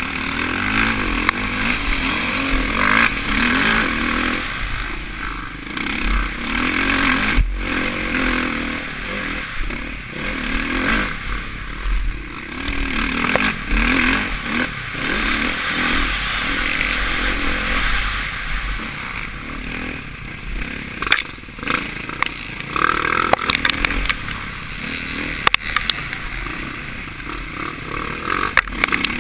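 Suzuki RM-Z450 single-cylinder four-stroke motocross engine revving up and down as the bike is ridden hard, heard from a helmet camera with wind rushing over the microphone. Sharp knocks and clattering come in bursts in the last third.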